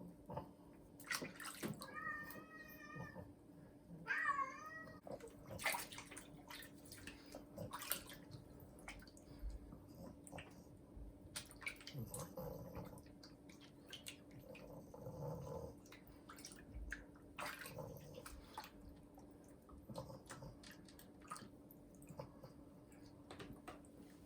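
Water splashing and dripping during a pet's bath, with scattered clicks, and two short wavering high-pitched animal calls about two and four seconds in.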